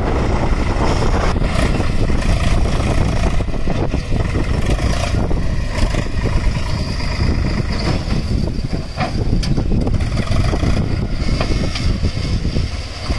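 Diesel engine of a heavy vehicle running steadily at close range.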